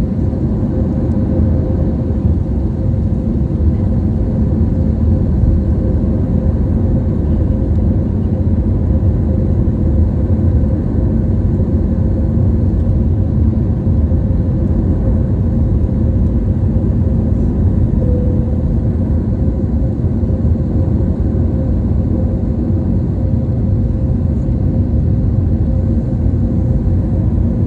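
Steady drone of an airliner's engines and airflow heard inside the passenger cabin, a deep rumble with a constant hum held throughout.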